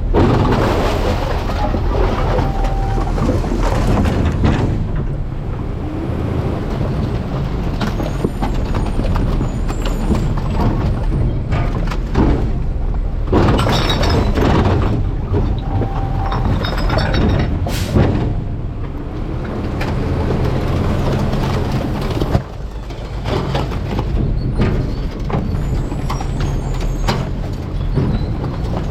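Garbage truck's diesel engine running steadily, with several louder bursts of clattering noise from the truck's working parts and load, and one short sharp noise about two-thirds of the way through.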